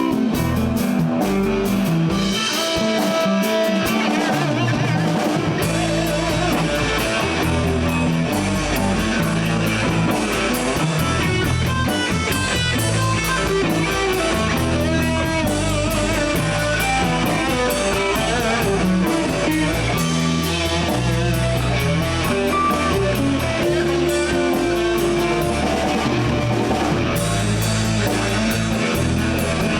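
Live blues band playing an instrumental stretch: an electric guitar takes a solo over bass and a drum kit.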